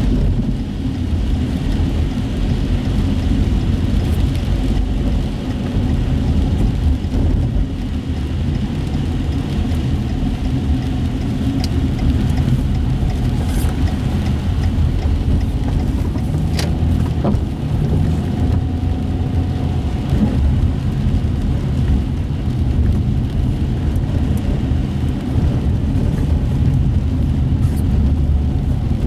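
Car driving on wet city streets heard from inside the cabin: a steady low engine and road rumble with the hiss of tyres on wet pavement.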